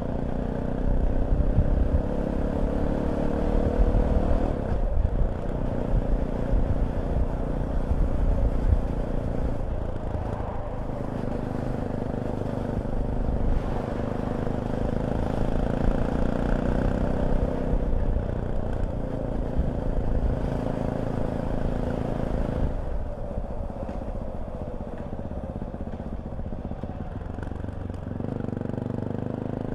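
Fantic Caballero 500 Deluxe's single-cylinder engine running on the move, its pitch climbing under throttle and dropping back at several gear changes. About three-quarters of the way through the throttle eases off and the engine note falls quieter for a few seconds before picking up again.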